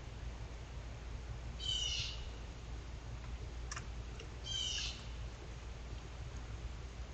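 Two short bird calls about three seconds apart, with a brief click between them, over a low steady hum.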